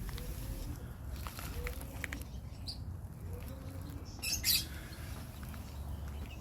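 Birds chirping, with a loud burst of high chirps about four seconds in and fainter calls before it, over a low steady rumble.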